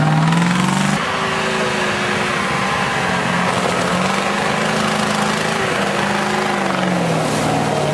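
Truck engine running hard under load, its revs dropping about a second in, holding, then sagging a little near the end.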